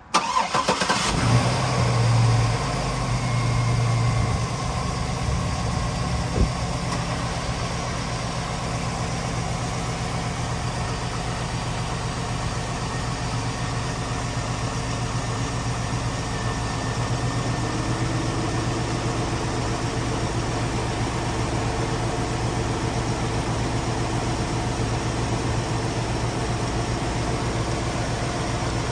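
Cadillac Escalade's 6.0-liter Vortec V8 starting up, running briefly at a higher idle for the first few seconds, then settling into a steady idle.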